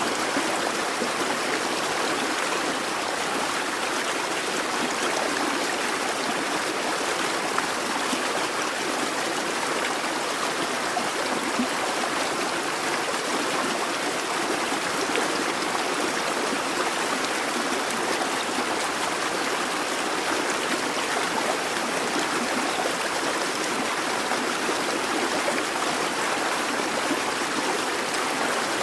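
A busy babbling brook: shallow water running and trickling over stones, steady and unbroken.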